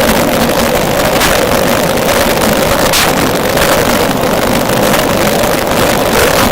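Heavily amplified outdoor field recording: loud steady hiss and low rumble with a constant mid-pitched hum, and a couple of brief rushing swells about one and three seconds in.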